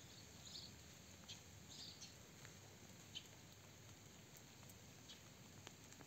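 Near silence of a quiet garden, with a few faint, short high bird chirps scattered through the first half.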